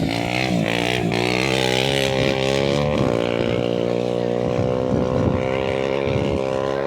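Engine of an off-road rally vehicle climbing in pitch as it accelerates, then running at a steady high speed.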